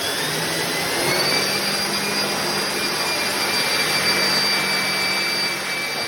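Philips Series 9000 bagless vacuum cleaner motor spinning up just after being switched on: its whine rises in pitch and levels off about a second in, then runs steadily with a constant rushing of air.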